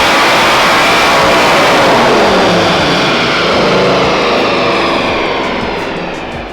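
Ford Mustang GT's naturally aspirated 5.0-litre V8 at high revs on a chassis dynamometer, through a cat-back sport exhaust. The revs wind down from about halfway as the dyno pull ends, and the sound fades near the end.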